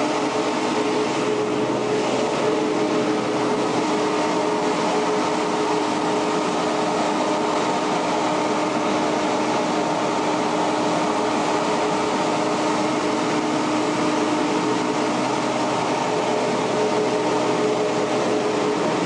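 A machine or engine running steadily: a constant hum with several fixed tones over an even hiss, unchanging in pitch and level.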